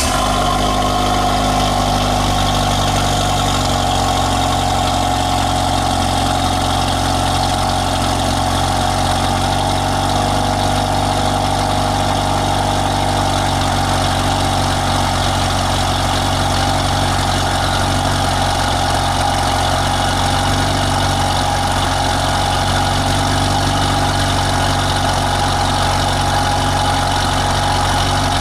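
Saturn Sky Redline's turbocharged 2.0L LNF inline-four idling steadily just after a cold start, heard through the stock exhaust with a catless downpipe.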